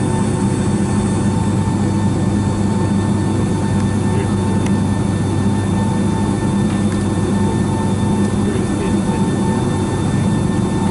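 Steady cabin drone inside a Boeing 757-200 on the ground before takeoff: the jet engines running at low power with the hiss of the cabin air and a few steady humming tones.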